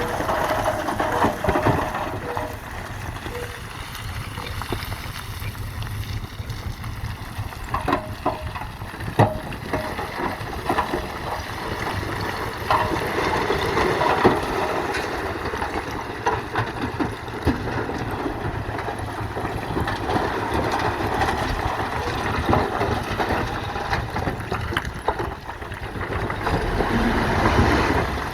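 Radio-controlled model dump trucks and bulldozer working: steady small-motor and gearbox noise, with scattered knocks and scrapes.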